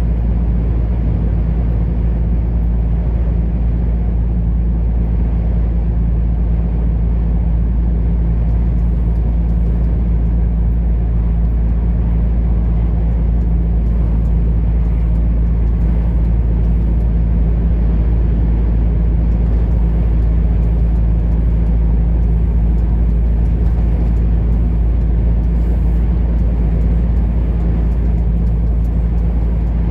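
Truck engine and road noise while driving: a steady, unbroken low drone that holds an even pitch and level throughout.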